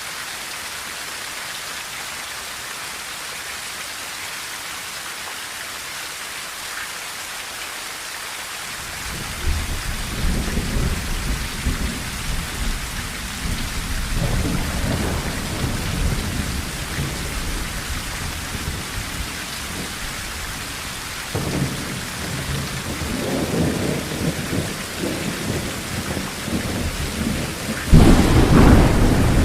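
Steady heavy rain on a tin roof. About nine seconds in, thunder starts to rumble, and it swells again about two-thirds of the way through. Near the end comes a loud, sudden thunderclap.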